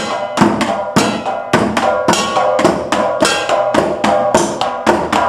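Percussion music: sharp struck notes with a ringing pitch in a steady rhythm, about two quick strikes every half second, cutting off abruptly at the end.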